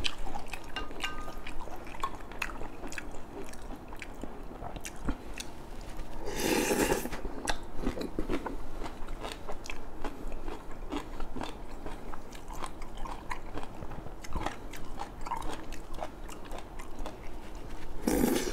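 Close-miked chewing and biting of stir-fried squid in satay sauce, with many small wet mouth clicks. Two louder bursts of noise stand out, one about six and a half seconds in and one near the end.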